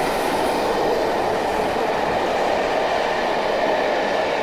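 Passenger coaches of a steam-hauled train running through a station beneath the listener, wheels rolling on the rails in a steady, even noise.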